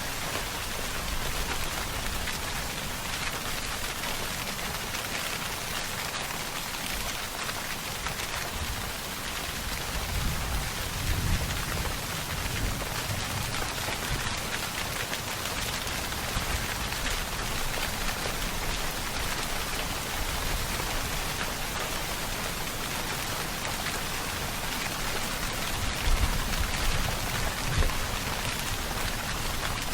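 Steady rain falling, an even hiss of many drops. Brief low rumbles come about a third of the way in and again near the end.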